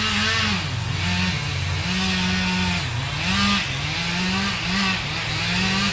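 Chainsaw running while felling a tree, its engine pitch repeatedly dipping and picking back up as the cut loads and frees it.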